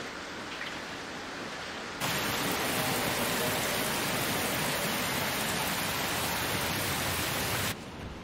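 Steady rain falling. About two seconds in it suddenly becomes louder and fuller, and near the end it abruptly drops back to a softer hiss.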